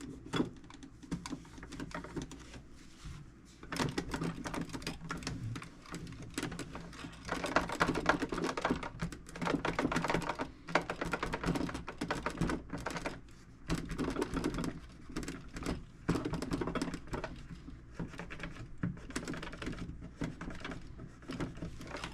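Microfiber cloth buffing wax off a metal toolbox's painted surface: stretches of quick rubbing strokes with short pauses between, loudest in the middle.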